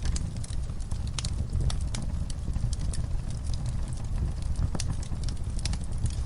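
Wood fire burning in a fireplace: a steady low rumble of the flames with frequent, irregular crackles and sharp pops, several a second.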